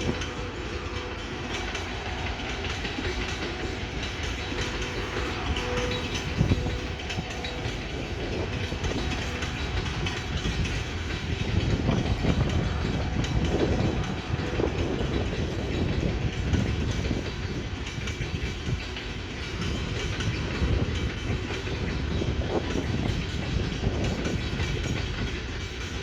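Train rolling on the rails, a steady rumble with wheels clacking over the rail joints.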